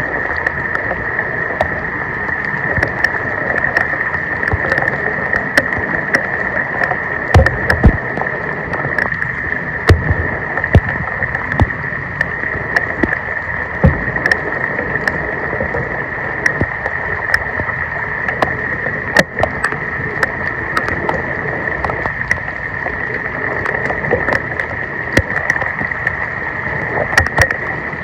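Floodwater rushing and splashing, with a steady high-pitched hiss and scattered knocks and clicks throughout, a few heavier thumps about seven to ten seconds in.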